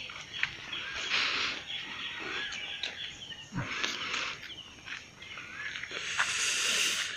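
Birds calling outdoors in short chirps and gliding whistles, with a few brief bursts of rustling noise about a second in, around four seconds in, and near the end.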